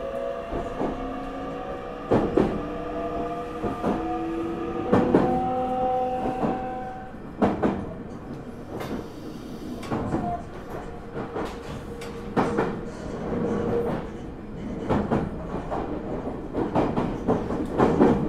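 Meitetsu 9500-series electric train heard from inside the passenger car. Its traction motor inverter tones rise in pitch over the first several seconds as it gathers speed, then settle into a steady hum while the wheels click over rail joints.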